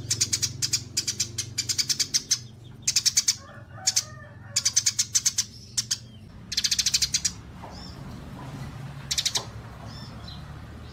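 Small songbirds chattering in rapid high trills, about seven or eight chirps a second, broken into runs with short gaps, then thinning to a few scattered notes. A steady low hum lies underneath.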